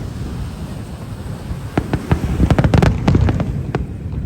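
Aerial fireworks display: a low rumble of distant bursts, then a rapid run of sharp crackling bangs in the middle, with one more crack near the end.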